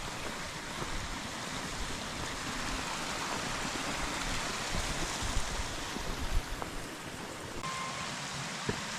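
Steady rushing of a mountain stream. Near the end the hiss suddenly thins.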